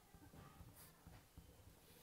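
Near silence: faint room tone with a few soft, brief scratches.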